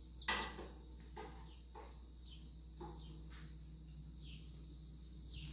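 Birds chirping intermittently, short high calls every second or so, over a low steady hum, with a few faint soft taps mixed in.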